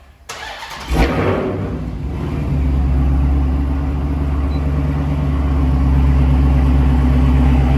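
2015 Dodge Hellcat's supercharged 6.2-litre V8 starting about a second in with a brief flare in revs, then settling into a steady idle: the first start on fresh oil after the oil change.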